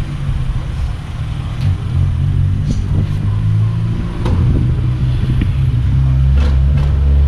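Car engine running, a steady low rumble that grows louder in the last couple of seconds, with a few faint clicks over it.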